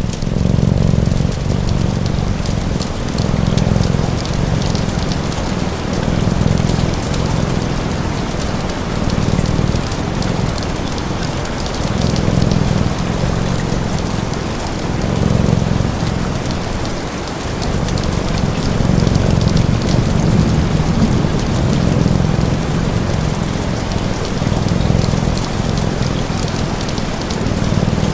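Steady rain hissing, with a cat's purr underneath. The purr's low rumble swells and fades with each breath, about every three seconds.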